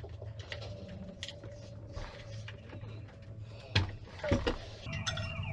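Light clicks and a few sharp knocks of small parts being handled as a diesel heater is taken apart to be cleaned, over a steady low hum.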